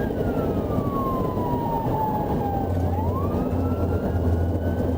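Police siren wailing: its pitch falls slowly for nearly three seconds, then climbs back quickly and holds, over the steady road and engine noise of a patrol car in pursuit.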